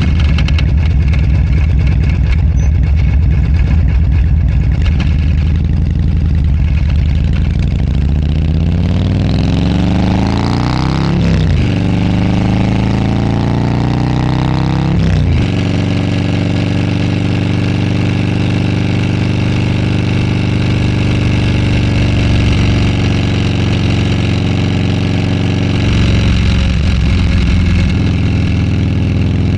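Motorcycle engine accelerating through the gears: the pitch climbs twice, with a sharp shift about 11 and 15 seconds in, then settles into a steady cruise.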